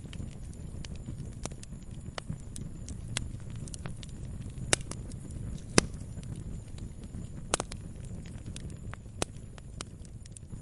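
Wood fire crackling in a fireplace: irregular sharp pops and snaps over a steady low rumble, with a few louder pops about halfway through.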